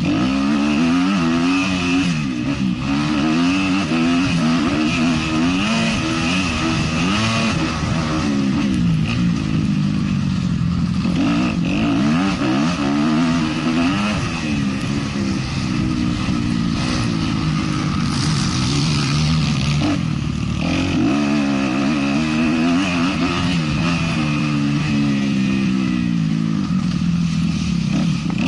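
450-class motocross bike engine revving hard, its pitch climbing and dropping again and again as the rider opens and closes the throttle around the track.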